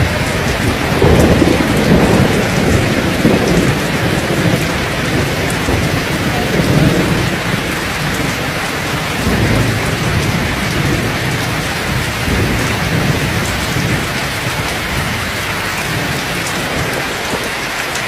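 Heavy rain pouring down steadily in a severe thunderstorm, with low rolling thunder swelling several times, strongest in the first few seconds.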